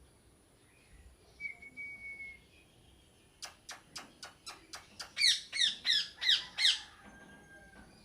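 Parrot calling: a faint whistle, then a rapid run of clicks at about four a second, followed by five loud, harsh squawks in quick succession, each falling in pitch.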